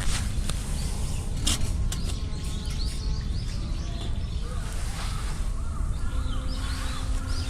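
Small birds chirping over a steady low rumble of wind on the microphone, with a few sharp clicks.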